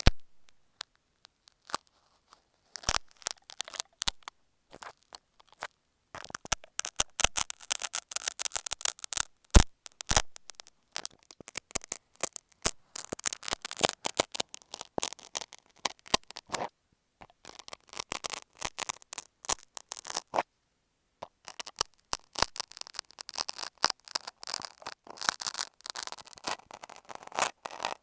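Utility knife (box cutter) scraping and scratching on masking tape over an earphone microphone: crackly bursts of close, rasping scrapes and clicks, broken by several short pauses.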